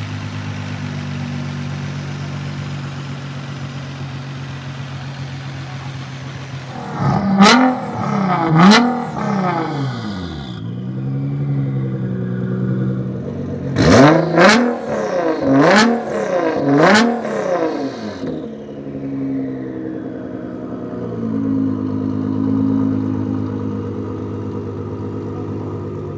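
Nissan GT-R R35's twin-turbo V6 through a catless Kline exhaust, idling steadily, then blipped twice in quick succession and, after a short idle, four more times, each blip rising and falling in pitch with a sharp crack at its peak, before settling back to idle. Loud.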